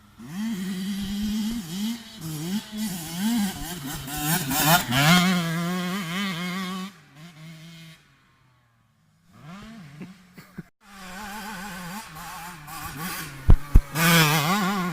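Yamaha YZ65 single-cylinder two-stroke motocross bike being ridden, its engine revving up and down as the rider throttles on and off. The sound cuts out abruptly a couple of times around the middle. Two sharp thumps near the end are the loudest moments.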